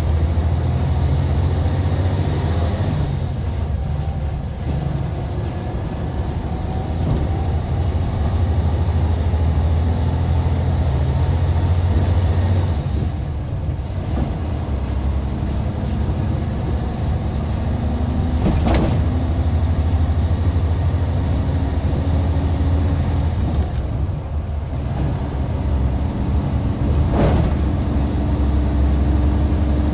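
Hyundai Universe Comfort coach's D6CC six-cylinder diesel pulling under load, its note rising steadily and then dipping briefly about 4, 13 and 24 seconds in, as at manual gear changes. Two short sharp sounds come near 19 and 27 seconds in.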